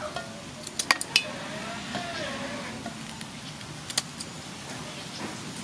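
A few sharp metallic clicks and clinks from kitchen scissors cutting up a fish: three quick ones about a second in and another about four seconds in.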